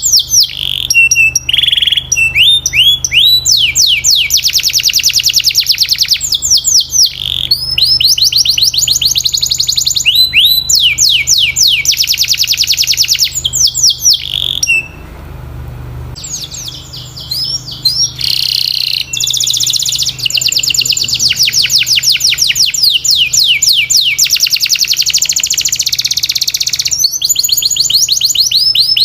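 Domestic canary singing: rapid trills made of many quickly repeated falling notes, one tour after another, with a short break about halfway through.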